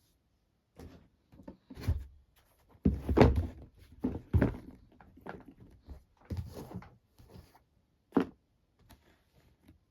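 Handling sounds from a pair of sneakers and their box: a series of dull thumps and knocks with softer scuffing and rustling between them, the loudest thump about three seconds in and a sharp knock a little after eight seconds.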